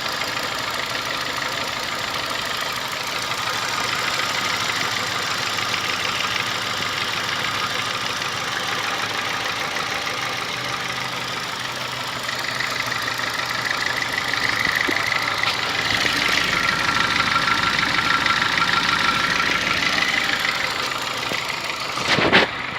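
Honda Fit petrol engine idling with a fast clattering, ticking noise, like a diesel Kombi or an old sewing machine, which the owner holds to be abnormal for any gasoline engine. He says the noise eases a little once the engine is warm. It gets louder in the second half, and a single sharp knock comes near the end.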